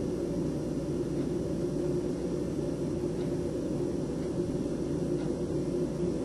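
Steady low rumbling wind noise of a snowstorm, without breaks or distinct events.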